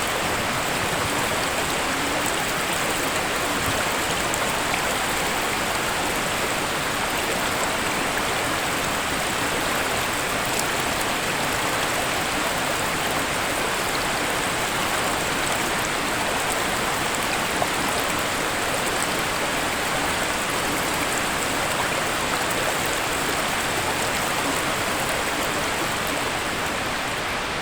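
Waterfall: water falling and splashing in a steady, unbroken rush, with small scattered drips and splashes in it.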